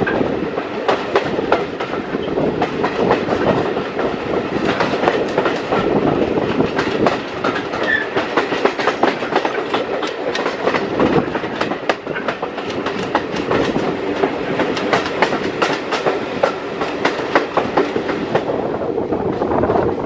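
British Railways Mk1 passenger coach running along the line, its wheels clattering and clicking over the rail joints with a steady rumble underneath.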